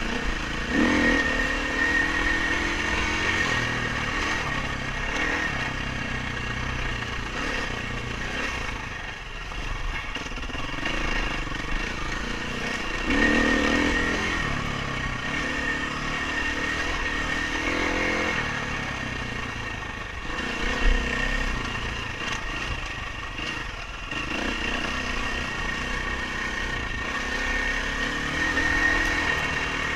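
Dirt bike engine being ridden hard, revving up and falling back repeatedly through throttle and gear changes, with a sharp thump about two-thirds of the way in.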